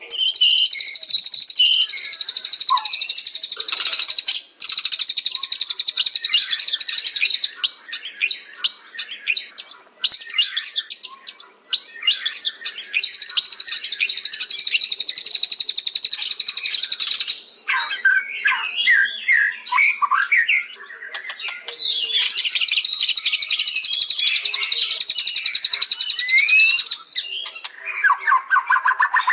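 White-rumped shama (murai batu) singing. It gives long, very rapid high trills that alternate with stretches of varied, quicker whistled notes lower in pitch.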